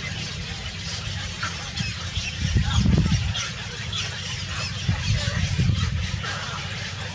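Birds chirping in many short, high calls, over two louder low rumbles about two and a half seconds and five seconds in.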